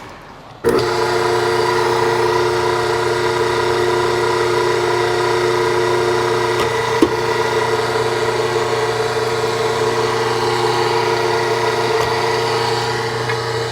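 Log splitter's motor starting abruptly about a second in and running steadily at an even pitch, with one brief knock midway.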